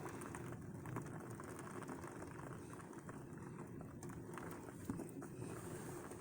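Faint, steady patter of heavy rain and water coming in through a leaking window seal, with small scattered ticks of drops.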